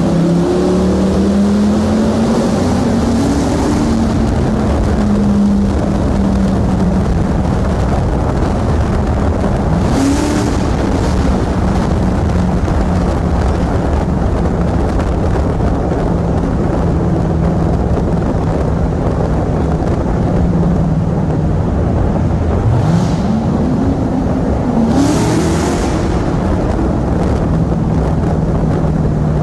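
Chevrolet Corvette V8 engines, a C7 Z06 and a C8 Stingray, running in a tunnel: a steady engine drone with several revs that rise in pitch, one about ten seconds in and a longer pair near the end.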